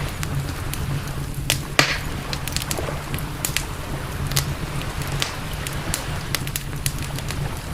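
Campfire burning, with many irregular sharp crackles and pops, one louder snap a little under two seconds in, over a steady low rumble.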